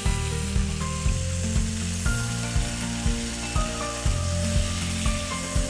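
Chicken pieces sizzling in olive oil on a hot ridged grill pan, with background music with a steady beat.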